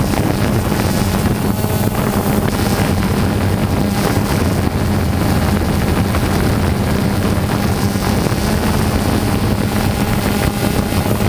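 DJI Phantom 2 quadcopter's motors and propellers droning steadily, heard up close from the GoPro mounted under the drone, with wind buffeting the microphone.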